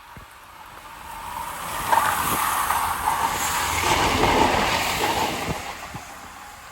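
GWR Class 166 diesel multiple unit passing by. The rumble and rail noise swell over about two seconds, stay loud for about three with a few sharp knocks, then fade away.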